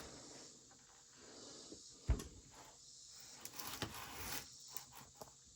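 Faint handling noise: light knocks and clicks of things being moved about, with one sharper thump about two seconds in.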